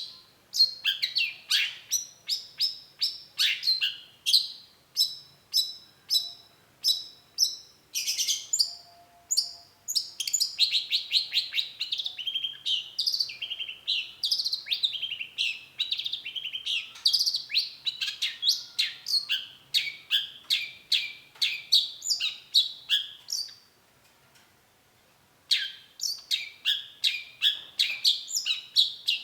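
Long-tailed shrike singing a fast, sustained run of short, sharp, high notes, several a second, breaking off for a moment about 24 seconds in and then starting again.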